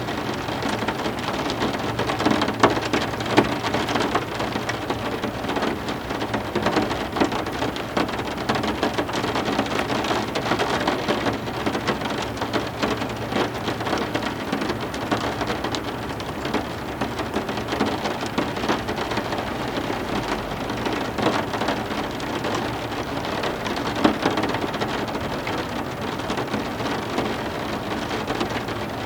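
Heavy rain falling steadily, with a dense patter of many individual drops ticking close by.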